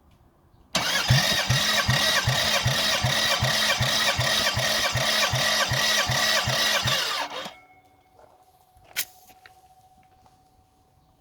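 Toyota 1MZ V6 engine being turned over by its starter for about six and a half seconds, with a steady rhythm of compression pulses about three a second. It stops suddenly without catching, then there is a single click.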